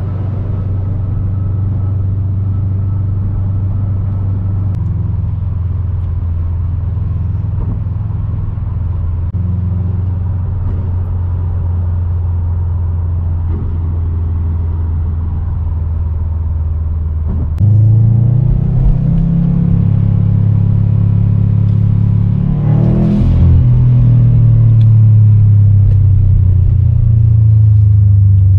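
A 2019 Subaru WRX STI's turbocharged 2.5-litre flat-four with an Invidia R400 exhaust, heard from inside the cabin as a steady low drone while driving. About two-thirds through, it abruptly becomes louder, and a few seconds later a brief noise swells and fades over it.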